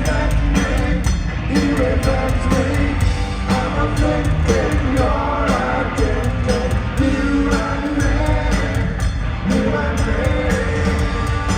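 Punk rock band playing live at full volume, with a singer over electric guitars, bass and drums.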